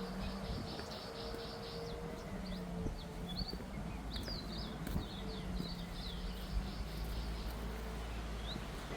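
Birds chirping outdoors: a quick run of repeated high notes at the start, then scattered chirps and short calls, over a steady low hum.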